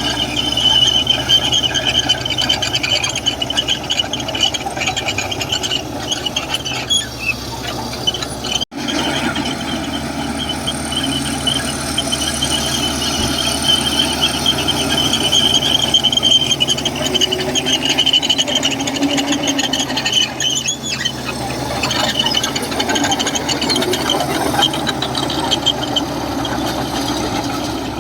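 Komatsu crawler bulldozer working, its steel tracks squealing steadily with a high tone over the engine's running; the sound cuts out for an instant about nine seconds in.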